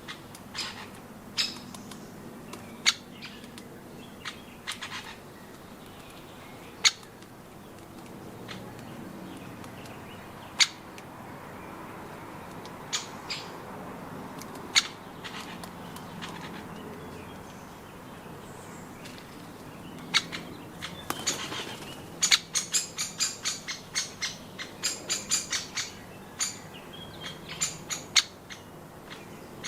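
Garden birds giving short, sharp high notes, scattered singly at first, then in a quick chattering run from about 22 seconds in.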